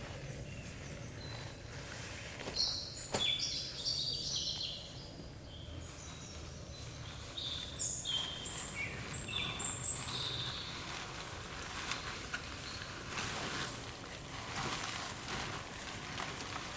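A bird calling in two bouts of quick, short high notes stepping up and down in pitch, over a steady background hiss and low hum with a few faint clicks.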